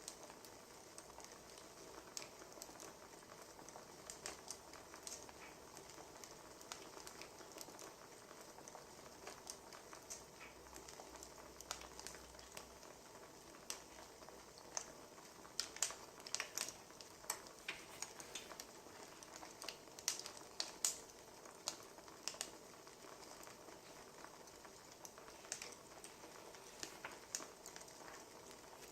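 Wood fire crackling: faint, irregular small pops and snaps over a steady low hiss, with a denser run of pops a little past halfway through.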